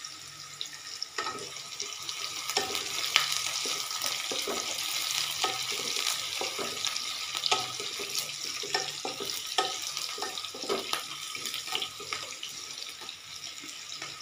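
Sliced onions and ginger sizzling in hot oil in a kadhai, with frequent short scrapes and clicks as a slotted spatula stirs them against the pan.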